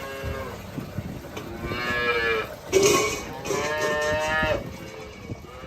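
Cattle mooing: a long moo about a second and a half in, a short loud call near three seconds, then another long moo.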